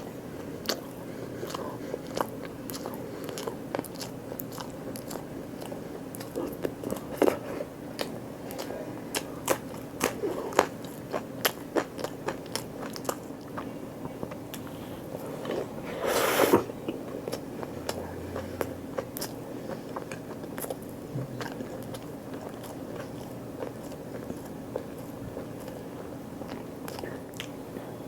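Close-up eating sounds: a person biting and chewing food, with many small crunchy clicks and one louder burst of crunching past the middle.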